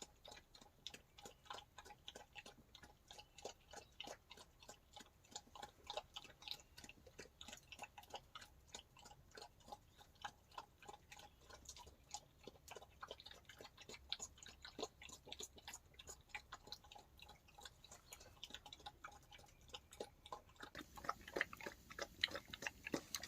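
Campfire burning down, crackling faintly with irregular sharp pops and ticks, a few a second, growing a little busier near the end.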